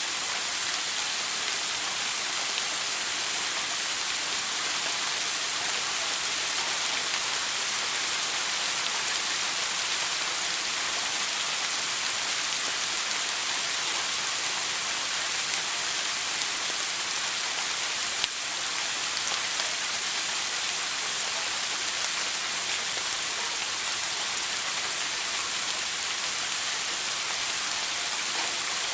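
Shower running: a steady, even hiss of water spray falling on a surface, with one faint click about eighteen seconds in.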